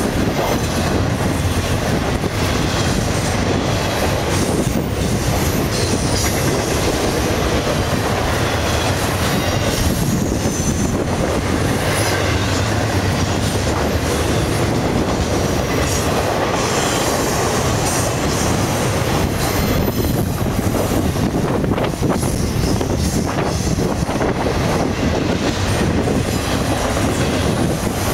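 Freight train of double-stack container and trailer cars rolling past: a steady loud rumble of steel wheels on rail with rapid clicking over the rail joints, and now and then a faint high wheel squeal.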